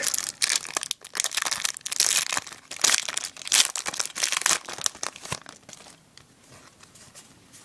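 Foil Yu-Gi-Oh booster pack wrapper being torn open and crinkled by hand, a dense crackling rustle that dies down after about five seconds.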